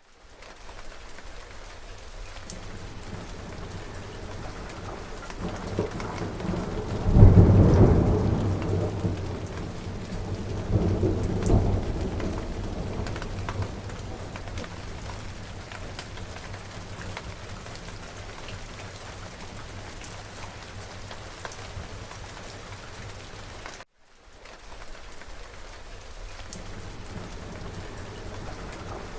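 Steady rain falling, with a rumble of thunder swelling about seven seconds in and a second rumble a few seconds later that dies away. The rain cuts out for an instant at the start and again about 24 seconds in.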